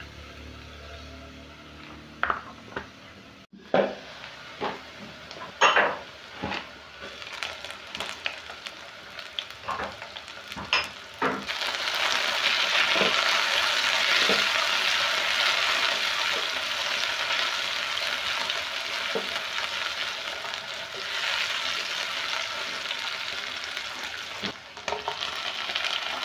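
Sliced onions and green capsicum frying in oil in a non-stick pot, stirred with a wooden spoon. First comes a string of knocks and scrapes against the pot, then from about eleven seconds in a loud, steady sizzle.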